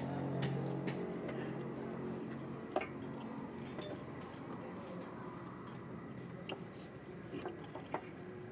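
Background music fading out in the first three seconds, then scattered light clicks and taps over a low hiss.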